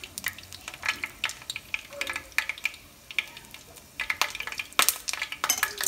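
Egg-battered cauliflower florets frying in hot oil in a skillet: irregular crackling and popping, thinning out briefly midway and busiest near the end.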